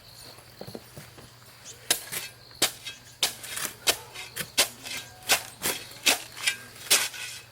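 A run of sharp knocks, about three a second, starting about two seconds in: a hard tool or object striking something hard, like hammering or tapping.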